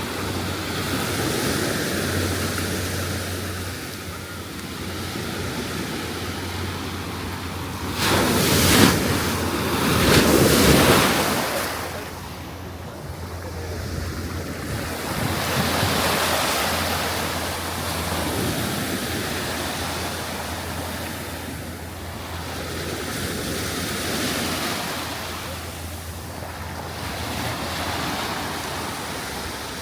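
Ocean surf washing onto a sandy beach, swelling and ebbing every few seconds, with wind buffeting the microphone. A louder rush comes about eight to eleven seconds in.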